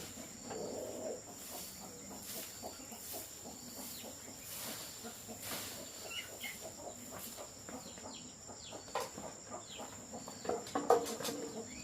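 Chickens clucking on and off, scattered short calls, over a steady high-pitched insect drone.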